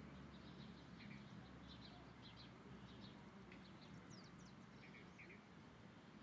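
Faint short bird chirps, a dozen or so scattered calls, some in quick pairs, over a steady low background noise.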